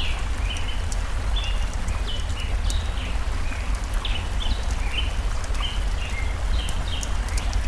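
Forest stream flowing steadily under a bird chirping short, high notes over and over, with the sharp crackle and pop of a wood campfire.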